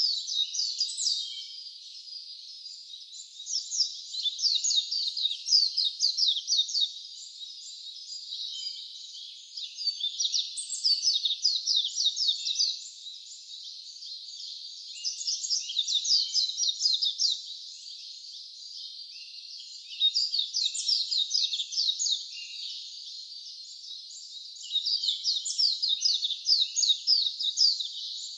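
A songbird singing: bursts of rapid, fast-falling high notes, each song lasting two to three seconds and repeated about every five seconds, over a steady faint high hiss.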